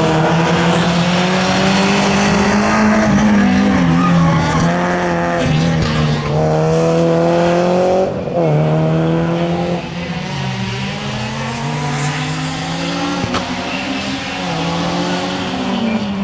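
Rally car engine at hard throttle, its revs climbing and dropping repeatedly through gear changes and lifts, with tyres squealing. It becomes a little quieter after about ten seconds.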